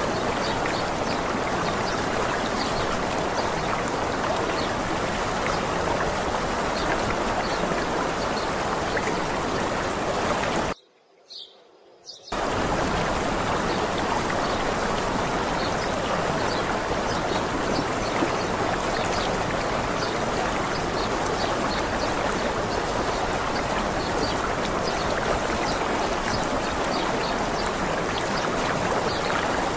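Running water of a small waterfall, a steady rushing hiss. Just before the middle it drops out to near silence for about a second and a half, then comes back.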